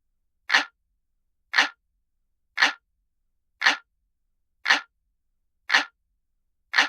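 Analog clock ticking: seven single sharp ticks, evenly spaced about once a second, with silence between them.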